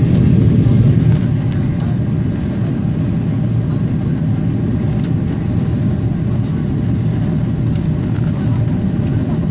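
Airliner cabin noise: a steady, loud low rumble of the jet engines and the aircraft rolling on the ground, heard from inside the cabin, with a few faint rattles.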